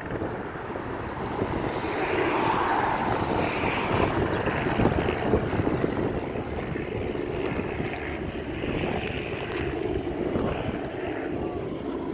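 Helicopter flying overhead: a steady engine and rotor din that grows louder about two seconds in.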